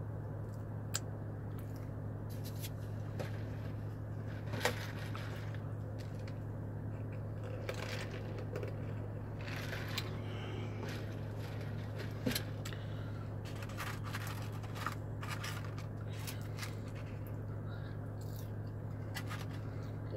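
Chewing, with scattered crinkles of a paper food wrapper and a few small clicks, over the steady low hum of a parked car idling with its air conditioning on.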